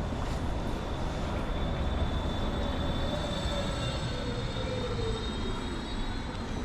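City road traffic: a steady rumble of passing vehicles, with one vehicle's whine falling in pitch over a few seconds.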